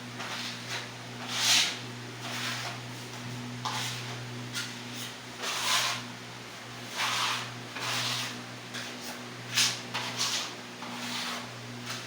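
A putty scraper drawn across a wall in about ten separate strokes at uneven intervals, spreading filler over a crack or joint before painting, over a steady low hum.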